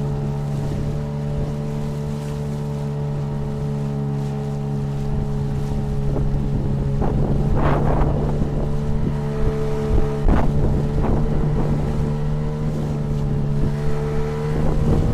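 Tohatsu 9.8 outboard motor on an inflatable boat running steadily under way, with a few sharp slaps of water against the hull in the middle and wind on the microphone; its pitch rises slightly near the end.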